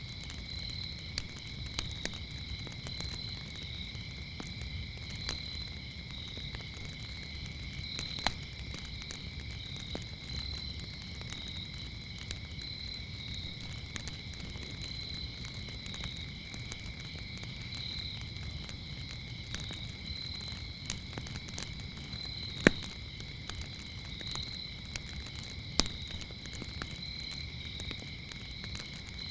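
Wood fire crackling, with scattered sharp pops over a low rumble, the loudest pop a little over 22 seconds in. Behind it, a steady chorus of crickets chirps at a high pitch.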